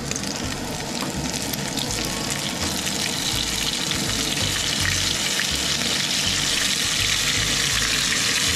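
Floured pieces of red sea cucumber sizzling in hot grapeseed oil in a cast-iron skillet, a dense crackling fry. The sizzle grows louder as more pieces are dropped into the oil.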